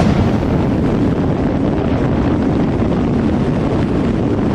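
Royal Enfield Interceptor 650's parallel-twin engine held at full throttle at highway speed, a steady drone mixed with wind rushing over the microphone.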